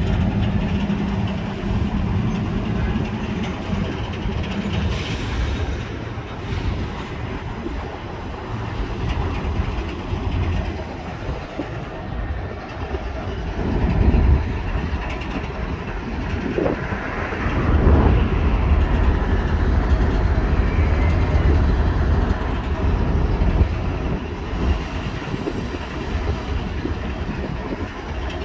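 CSX freight train rolling past with a continuous low rumble of cars on the rails. A steady hum is heard in the first few seconds, and the rumble swells about halfway through and again a few seconds later.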